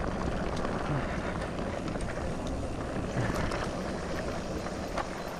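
An e-mountain bike riding through a creek crossing: a steady rush of splashing water and tyre noise, with a few light knocks.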